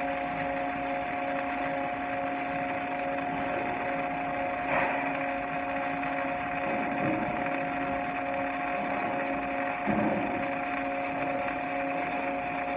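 Steady electrical hum of welding equipment with a hiss behind it, and two brief knocks, about five and ten seconds in.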